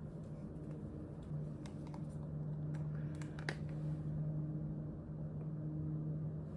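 A few faint clicks and taps of makeup compacts and brushes being handled, over a steady low hum.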